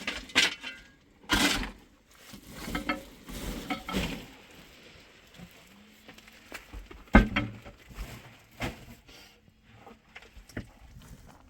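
Irregular knocks, clinks and scrapes of hard objects being handled, with one louder knock about two-thirds of the way through.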